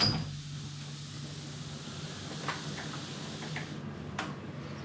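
A steady low hum with a hiss, and a few faint clicks; the hiss drops away near the end.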